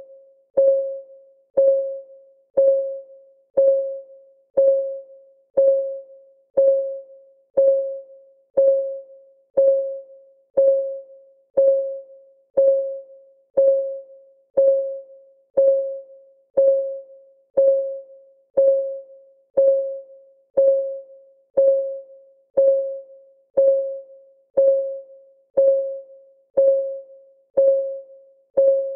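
A countdown timer's clock-ticking sound: one short, pitched tick about once a second, each dying away quickly, in a steady, even rhythm.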